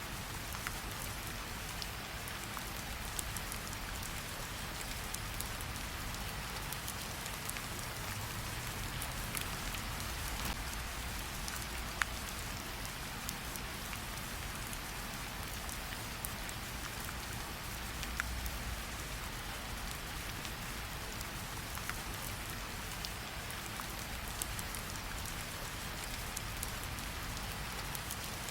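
Steady rain falling, with scattered sharp pops and crackles from a campfire, the loudest about twelve seconds in.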